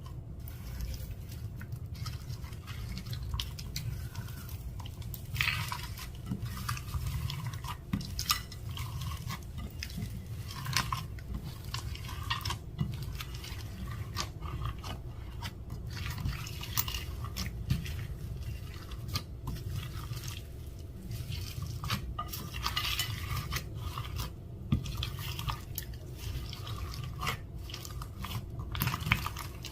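Clear slime being mixed and worked with its add-ins, giving a steady run of small wet squelches, clicks and pops.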